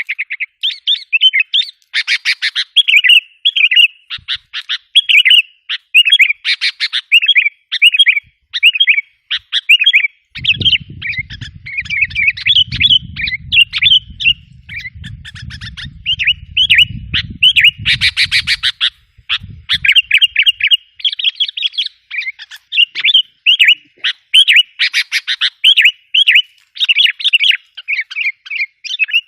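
Sooty-headed bulbul (kutilang) lure call: a busy, unbroken stream of quick chirps and trilled phrases. A low rumble runs under it for several seconds, starting about a third of the way in.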